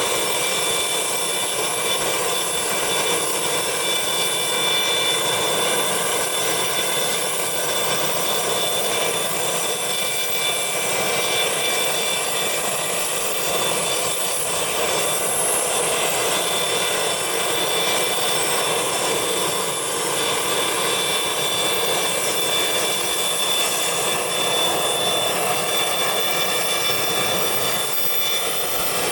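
Business jet's turbofan engines running steadily close by: a constant high whine over a loud, even rush of engine noise.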